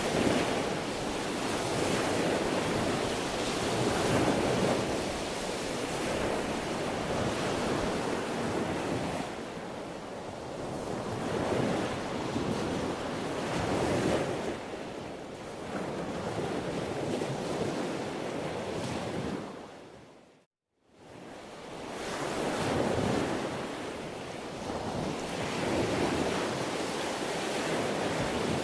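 Sea waves washing onto the shore, the surf swelling and ebbing every few seconds. A little over two-thirds of the way in, the sound fades briefly to silence, then fades back in.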